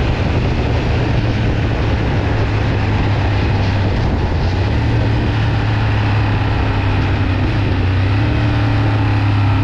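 Ducati Monster 1200S L-twin engine running at a steady cruising pace with a low, even drone and wind rush. The pitch nudges up slightly about halfway through.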